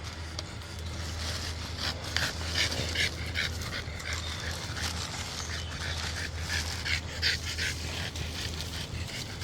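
A dog panting in quick, short breaths over a steady low hum.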